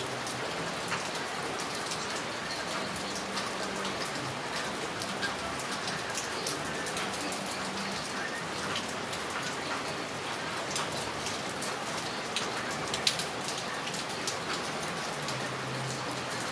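Heavy rain falling steadily, with many individual drops ticking on hard surfaces.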